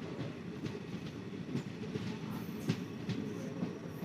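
Express passenger train running, heard from on board a coach: a steady low rumble with scattered, irregular clanks and knocks from the wheels and carriage.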